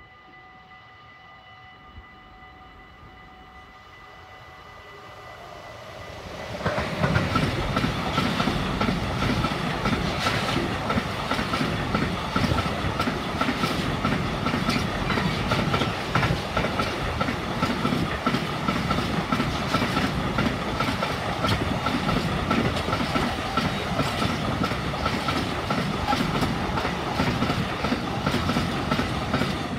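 Container freight train arriving and passing close by. It is faint for the first few seconds, then loud and continuous from about six seconds in, the wagons' wheels clattering over the rail joints under a steady high ring.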